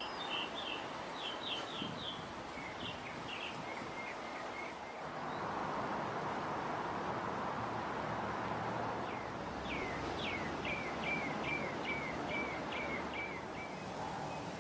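A bird singing: a quick run of short falling chirps near the start and another longer run past the middle, over a steady background rush of outdoor noise.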